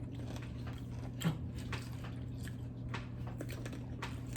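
People chewing and crunching rolled Takis tortilla chips with fresh jalapeños and cream cheese: irregular crisp crunches, one louder about a second in, over a steady low hum.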